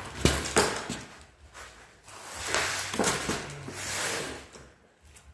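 Metal clunks and knocks, then a longer scraping, rushing noise with a few more knocks, as a transmission is worked loose and pulled off the back of an engine at the bell housing.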